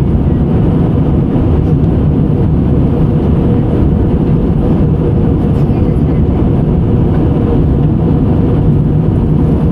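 Airliner engines and airflow heard inside the passenger cabin: a loud, steady, low drone with a faint constant hum in it.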